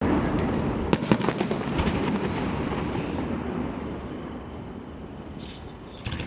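Fireworks display: a steady rumble of booms with a run of sharp crackling pops in the first two seconds. The rumble slowly dies down, and a few more pops come near the end.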